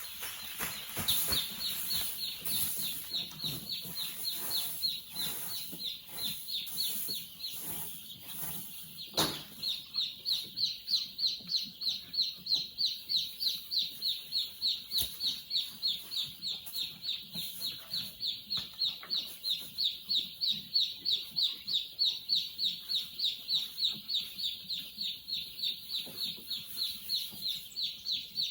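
Chickens calling: a continuous run of short, high-pitched calls, about three a second. There is one sharp knock about nine seconds in.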